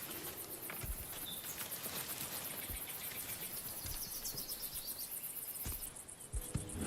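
Outdoor natural ambience: insects trilling in a fast, steady, high-pitched pulse, with a few short chirps and some faint low knocks.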